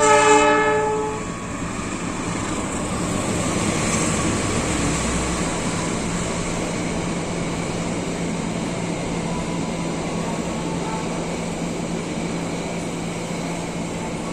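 Train horn giving one short blast of about a second, the loudest sound here, followed by the steady running noise of the train going by on the rails.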